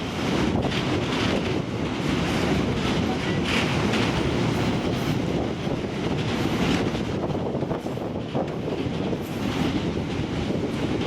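Freight train wagons rolling past, with a steady rumble and wheels clicking over rail joints at uneven intervals.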